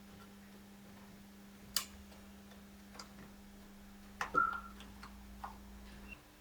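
Faint, scattered clicks and taps of hands and tools on plastic undertray clips and trim, about five in all. A steady low hum underneath cuts off near the end.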